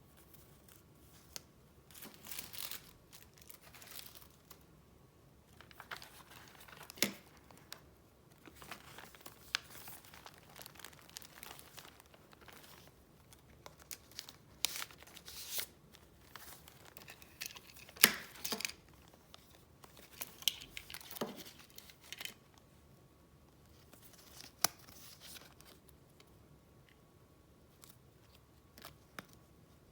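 Paper and wrappings being handled by hand: rustling and crinkling in irregular bursts, with a few sharp taps, the loudest a little past halfway through.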